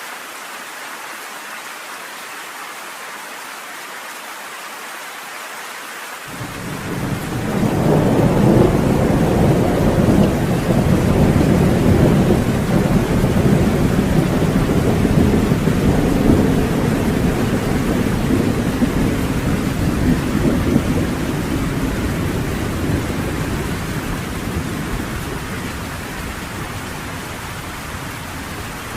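Steady rain pattering on a cabin porch; about six seconds in, a long roll of thunder breaks in, swells over a couple of seconds, rumbles loudly for a good ten seconds and then slowly fades under the rain.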